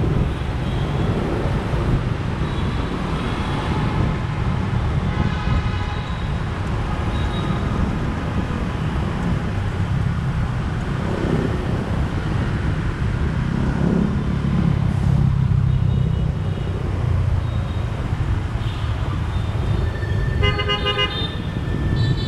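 Riding a motorbike through dense city traffic: a steady low rumble of engine and wind, with vehicle horns honking, briefly about five seconds in and again in a burst of beeps near the end.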